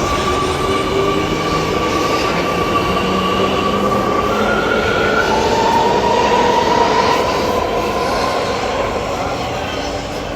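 Loud, steady running noise of a moving vehicle, with sustained high whining tones that shift in pitch a few times.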